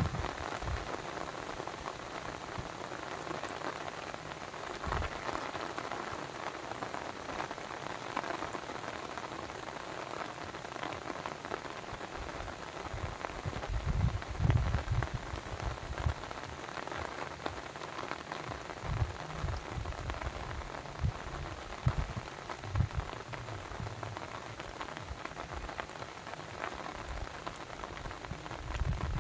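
Steady, dense water noise, an even patter, broken by occasional low thuds.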